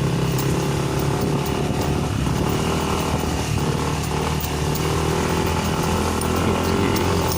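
Motorcycle engine running steadily as the bike is ridden, a constant even drone with no breaks.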